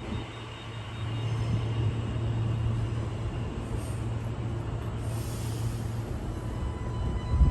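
Train rumbling steadily, with two brief high hisses of air in the middle.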